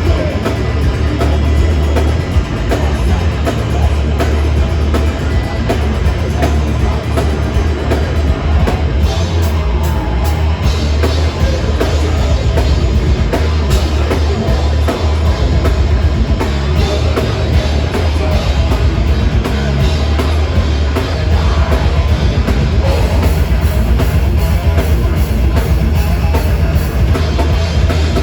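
Live heavy metal band playing loudly, a drum kit driving under amplified guitars and bass, with a heavy low end and no let-up.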